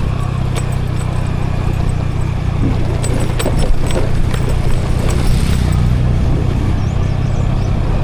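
Scooter riding, recorded on the rider's action camera: a steady low engine hum mixed with wind rumble on the microphone. A run of sharp rattling clicks comes in the middle.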